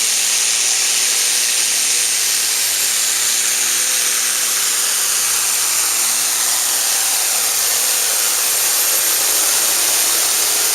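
Turbocharged diesel pulling tractor running hard under load. It sounds as a loud, steady, hissing high-pitched blare with a faint engine tone underneath.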